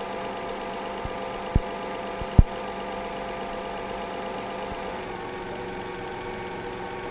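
Toyota 3.0 V6 engine idling steadily while it is being treated with head gasket sealant for a combustion leak into the cooling system. Two short dull knocks come close together about two seconds in.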